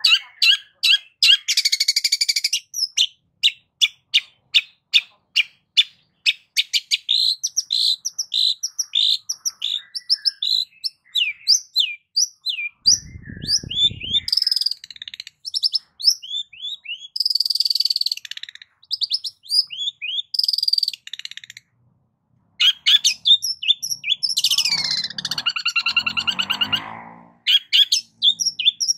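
Long-tailed shrike (cendet) singing: a fast run of sharp repeated chirps, about three to four a second, then a varied string of trills and mimicked calls. A short low buzz comes about halfway, and falling, sweeping calls come near the end.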